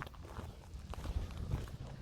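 Faint footsteps: light, irregular steps over a low rumble.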